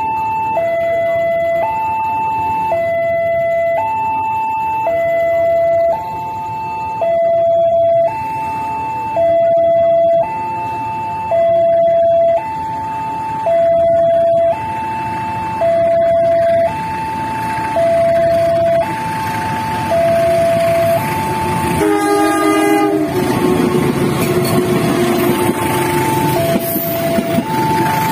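Railway level-crossing warning alarm sounding, an electronic two-tone signal alternating high and low about once a second, as a train approaches. About 19 seconds in, the train's running noise rises, and a short train horn blast sounds about 22 seconds in as it passes over the crossing.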